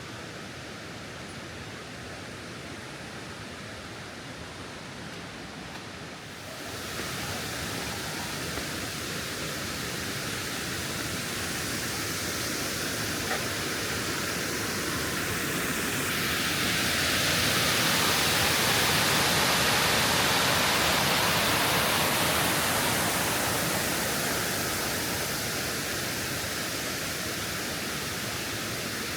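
Waterfall: steady rushing of falling water with no pitch or rhythm. It jumps louder and brighter about six seconds in, swells further in the middle, and eases a little near the end.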